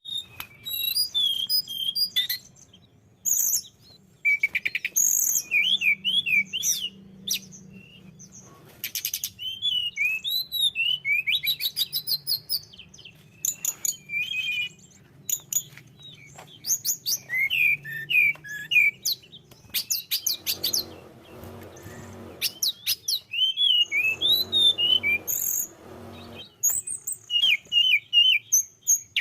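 Tledekan gunung singing in a fast, varied stream of chirps, trills and whistled phrases, with short breaks between them. A low rumble comes in twice in the second half.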